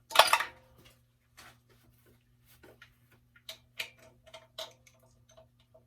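Hand socket wrench on extensions working on an engine bolt: a loud metal clank near the start, then a run of light ratchet clicks, about three a second in the second half, over a steady low hum.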